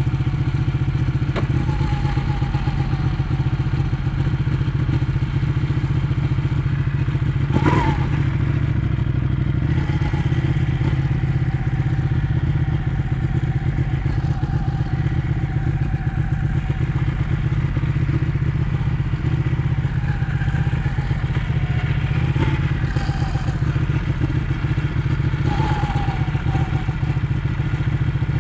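Ducati 1199 S Panigale's Superquadro V-twin engine running under way at fairly even revs. A sharp knock is heard about eight seconds in.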